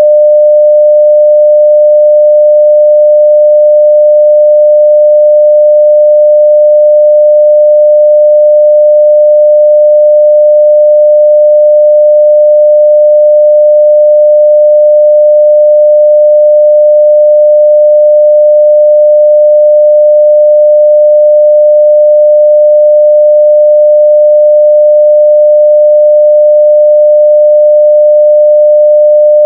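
Continuous 600 Hz sine-wave test tone at full level (0 dB), one steady pure pitch with no change.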